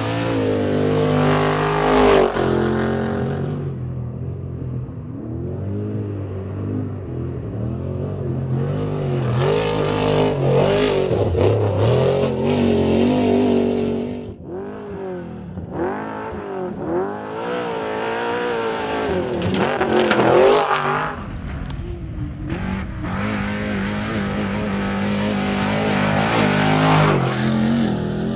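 Off-road race truck engines revving hard, their pitch rising and falling again and again as the trucks race by, loudest about two, ten to twelve and twenty seconds in.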